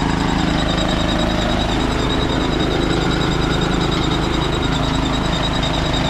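A motor vehicle's engine running steadily while on the move, with a constant low drone and road noise.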